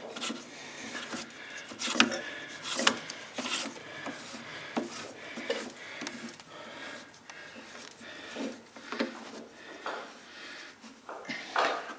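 Workshop handling noise: irregular knocks, clinks and scraping as parts and tools are moved and fitted by hand.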